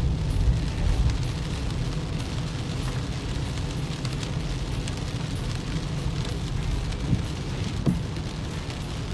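Car interior noise while driving at speed in heavy rain: a steady low road-and-engine rumble, with rain ticking on the body and windscreen. A brief rising squeak sounds about eight seconds in.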